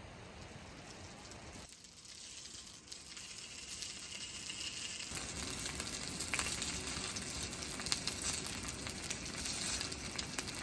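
Food sizzling and crackling in a hot pan or on a grill, fading down about two seconds in and coming back louder about five seconds in.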